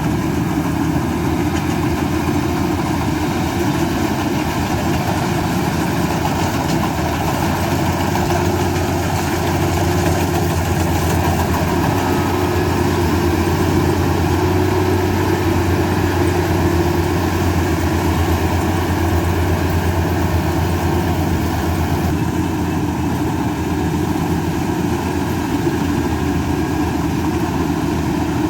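Combine harvester running steadily, a continuous mechanical engine drone that swells slightly partway through.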